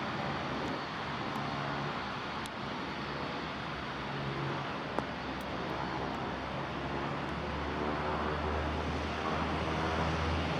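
CN-235 military transport's twin turboprop engines running: a steady, noisy drone with a steady hum in it. A deeper low drone grows stronger about seven seconds in, and there is a single sharp click about halfway through.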